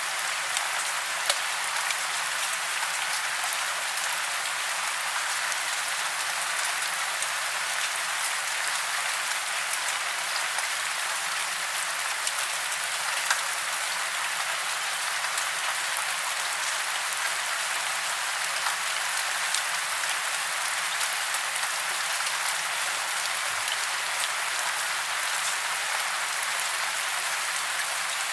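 Steady rain falling, a dense even patter of drops with the odd louder drop standing out.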